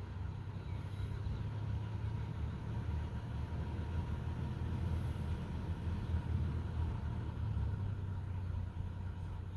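Steady rain under a strong, steady low rumble, with a faint bird chirp about a second in.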